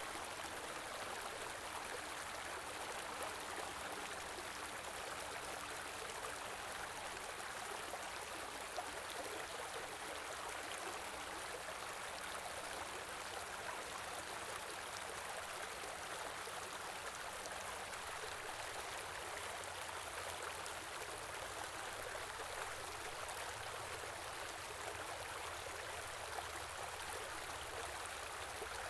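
Flowing stream: a steady, even rush and babble of running water.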